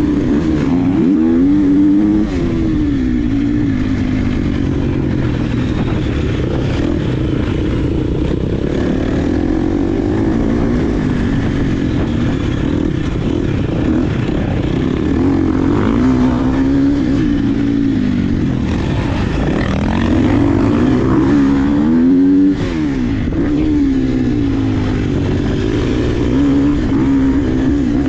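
Motocross dirt bike engine running under riding load, its pitch climbing and falling as the throttle opens and closes. The loudness drops abruptly twice, about two seconds in and again past the twenty-second mark, where the throttle is chopped.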